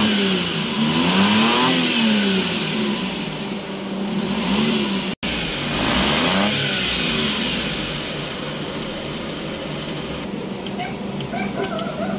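Suzuki F6A three-cylinder engine running, its revs raised and dropped a few times in the first half, then settling into a steady idle. It is being test-run after its carburetor was cleaned to cure its stalling.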